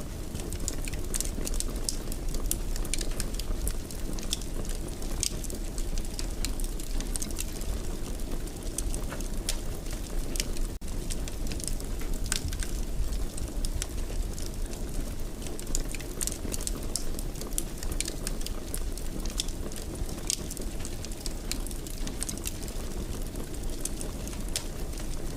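Wood fire crackling in a fireplace: frequent sharp snaps and pops over a steady low rumble of burning.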